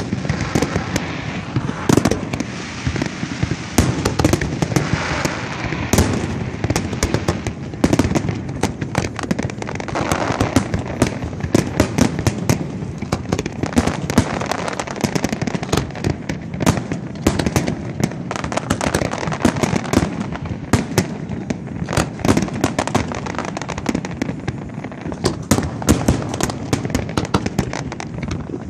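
Fireworks display going off: a dense, irregular run of bangs and crackles, several a second without a break.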